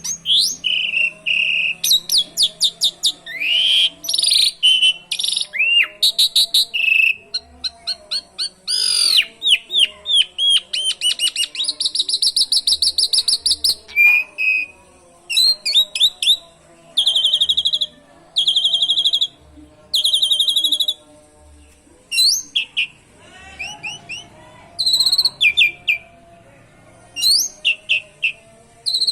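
Asian pied starling (jalak suren) singing a busy song of rapid trills, chirps and whistled sweeps in many short phrases, with canary-like rolls and trills mixed in.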